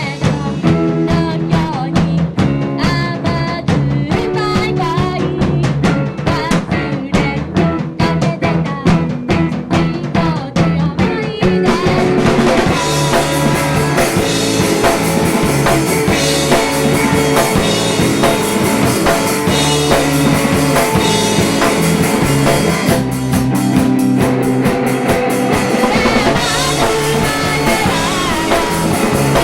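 Small indie-pop rock band playing a song live: drum kit with rimshots and kick drum under picked electric guitar notes. About twelve seconds in the band comes in fuller and louder, with cymbals filling the top.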